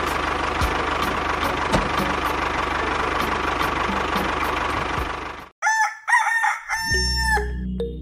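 Tractor engine running steadily, with a low rhythmic chug under a noisy hiss, which cuts off about five and a half seconds in. A rooster then crows, and music begins near the end.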